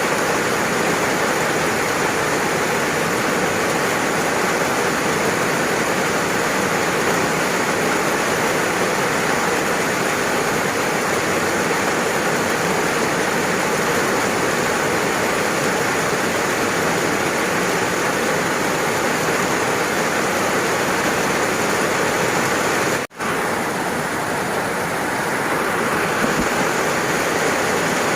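Steady, dense rain falling, an even hiss with no distinct drops standing out. Late on it cuts out for a split second and then resumes.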